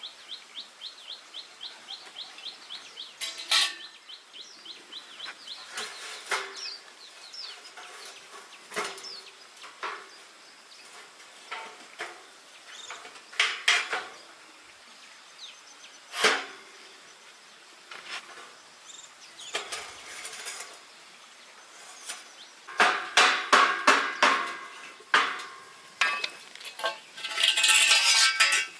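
Scattered metallic clinks and clanks of iron bars being handled and knocked together, with a dense flurry of knocks near the end and a short harsh rasp just before it stops.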